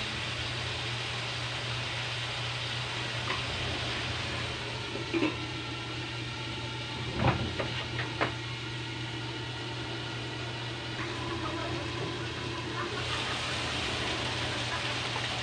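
Chicken pieces sizzling in an aluminium wok, a steady hiss as the moisture cooks off and the fat renders. There are a few metal clinks around the middle as the lid is handled, and near the end, with the lid off, the sizzle turns brighter and louder.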